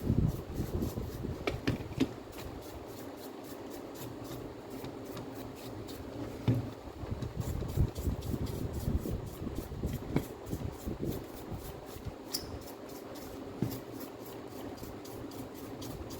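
Handling noises of work at a bench: rubbing and scraping, with a few light knocks now and then.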